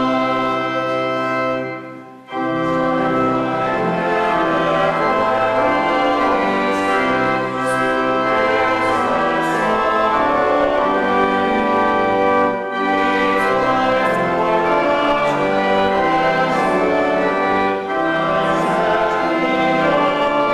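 Church organ playing a hymn in held chords, with a short break between phrases about two seconds in.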